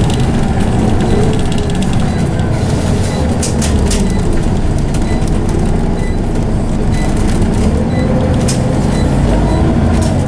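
Scania OmniCity bus heard from inside while under way: the diesel engine runs with the loud whine of its ZF automatic gearbox, the pitch sliding up and down with road speed. A few sharp clicks and rattles come through, twice.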